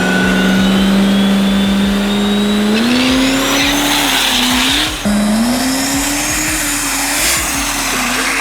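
Diesel drag-racing truck engine running loud at high revs, held steady at first with a high turbo whine climbing over it, then revving higher and wavering, with a short break about five seconds in like a gear change.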